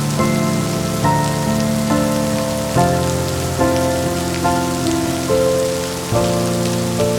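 Steady rain falling, mixed with slow, calm music in which a new note or chord comes in roughly every second.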